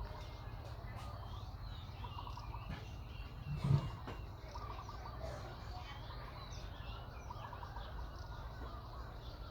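Short, rapidly warbling animal calls repeated every second or so over a steady low background hum, with a single low thump about three and a half seconds in.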